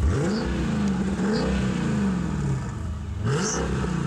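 Mercedes-Benz CLK DTM AMG's supercharged V8 revved hard three times, the pitch shooting up sharply at the start, again after about a second and again near the end, each time easing off more slowly.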